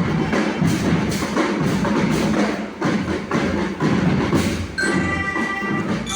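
School marching band playing, its drums beating a steady march rhythm. A melody on pitched instruments comes in near the end.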